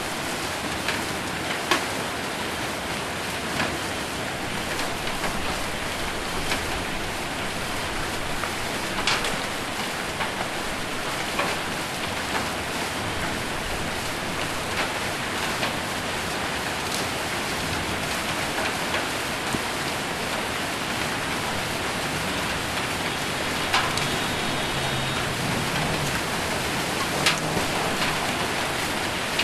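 Heavy rain with hail falling on a roof: a steady hiss of rain, with sharp knocks of single hailstones striking every second or two.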